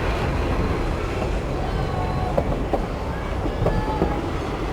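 Train running, a steady low rumble throughout.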